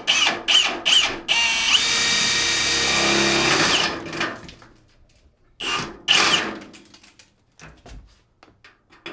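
Power drill boring a hole with a step drill bit through a wood stud. It runs steadily for about two and a half seconds, winding up at the start and down at the end, then gives two short bursts.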